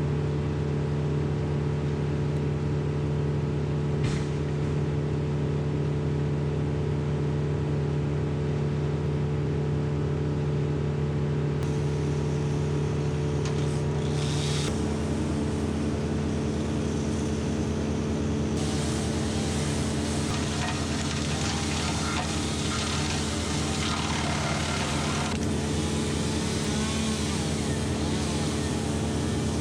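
Woodland Mills PTO wood chipper running off a TYM 574 tractor at 540 PTO speed, a steady mechanical drone. About halfway through the pitch shifts, and a few seconds later a harsher hiss joins in and carries on.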